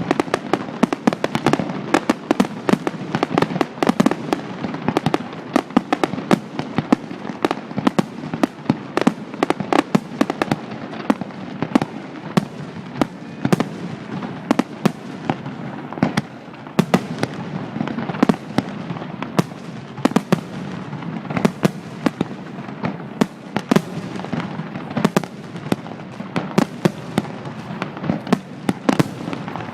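Fireworks display: a continuous barrage of bursting shells and bangs, several a second, with a steady rumble between them.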